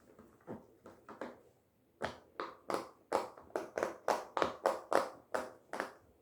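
Silicone pop-it fidget toy bubbles being pressed one after another, a run of short pops. They are faint at first, then louder and about three a second from about two seconds in, stopping just before the end.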